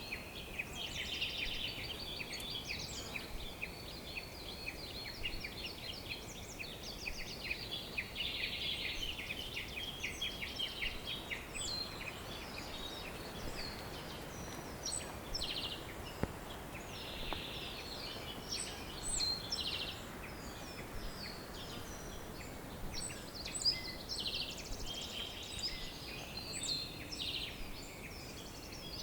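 Several songbirds singing at once: a dense chorus of short chirps, whistles and rapid trills throughout, over a steady low background noise.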